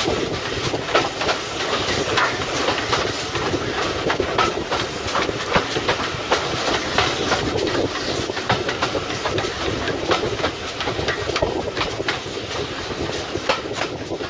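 Steam-hauled passenger train running along the track, heard from an open carriage window: a steady rumble of the coaches with many irregular clicks and clacks from the wheels over the rails.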